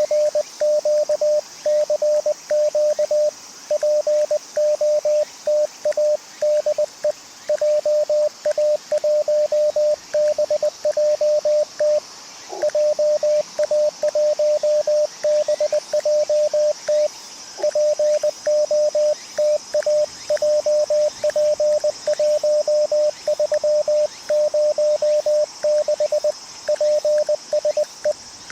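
Morse code (CW) from an amateur radio transceiver: a single steady mid-pitched tone keyed on and off in quick dots and dashes, with a few short pauses. The receiver hiss drops out while it plays, as with the transmitter's sidetone while the operator sends CQ POTA.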